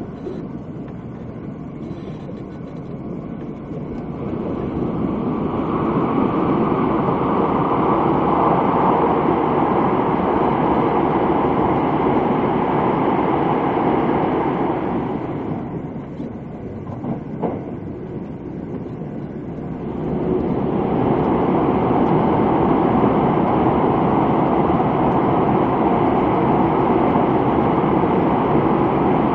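Running noise of a Limited Express Thunderbird electric train heard from inside the passenger car: a steady rumble of wheels on rail. It falls quieter near the start and again about two-thirds of the way through, with a couple of light knocks in that quieter stretch.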